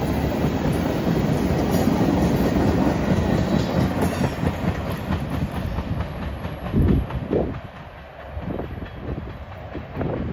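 Freight train tank cars rolling past, steel wheels clattering over rail joints, the sound fading as the end of the train draws away. A few strong low thumps about seven seconds in.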